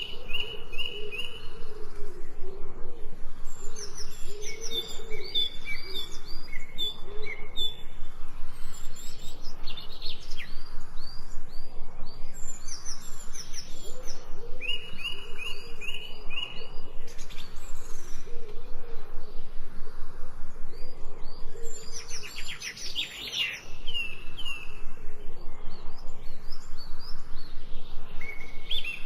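Several birds singing and chirping: short, quickly repeated high chirp phrases from more than one bird, over lower repeated calls.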